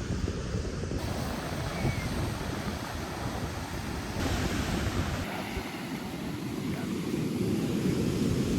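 Ocean surf and wind rushing over the microphone, a steady low rumbling noise that changes abruptly a few times.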